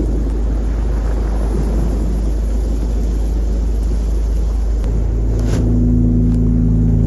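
Heavy low rumble of wind on the microphone with surf noise. About five seconds in, the steady hum of a motor engine comes in and holds.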